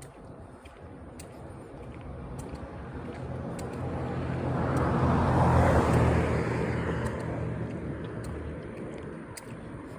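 A car driving past on the street, its engine hum and tyre noise growing louder to a peak about halfway through and then fading away.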